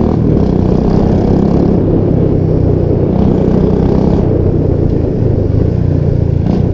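Royal Enfield Bullet Classic 350 single-cylinder four-stroke engine running through an aftermarket 'Punjabi dhol' exhaust that replaced the stock pipe. The exhaust note is loud, deep and steady.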